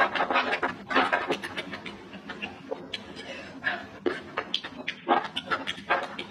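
A person chewing with the mouth open while eating rice and jengkol by hand, making close, irregular smacking and clicking mouth sounds, with a few louder smacks.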